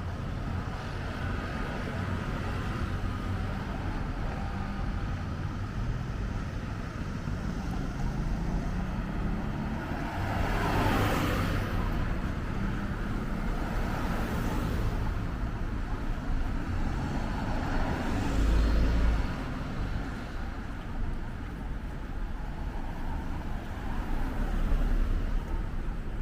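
City street traffic: a steady rumble of engines and tyres, with several cars passing close by one after another, each swelling and fading.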